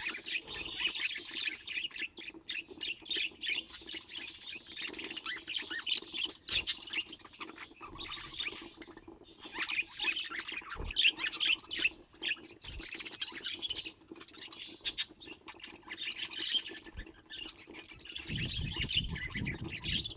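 Budgerigar chattering: a rapid run of chirps and squawks with hardly a pause, over a faint steady hum, with a low rumble near the end.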